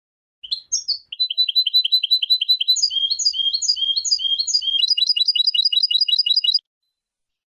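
European goldfinch song: quick runs of repeated trilled notes that change phrase twice, starting about half a second in and cutting off sharply near the end.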